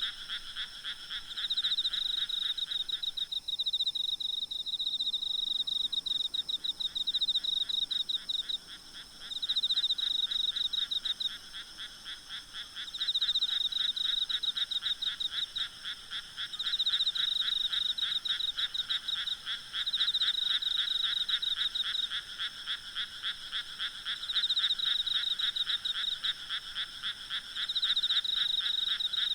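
Night chorus of frogs and insects calling in fast pulsed trills: a high trill comes in bouts about every three and a half seconds over a lower, steadier trill that drops out for a few seconds near the start.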